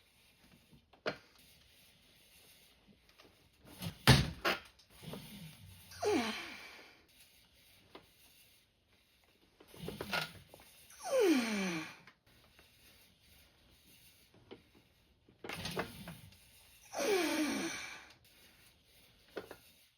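A man's strained, breathy exhales falling in pitch, each about a second long, repeating every five seconds or so as he works through a lifting set. A sharp clank comes about four seconds in.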